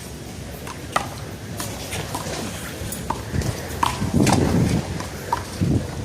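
Rubber handball being slapped by hand and smacking off the concrete wall and court during a rally: a string of sharp, irregular smacks. A louder, low noisy stretch of about a second comes a little past the middle.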